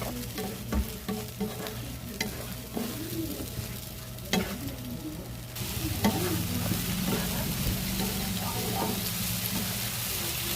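Food frying in a pan while a utensil stirs it, with sharp clicks of the utensil against the pan. About five and a half seconds in, a louder, steady sizzle takes over.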